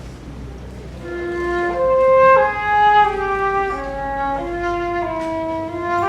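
A small instrumental ensemble starts playing Baroque music about a second in, with several sustained melodic parts moving in steps over one another after a moment of low room hum.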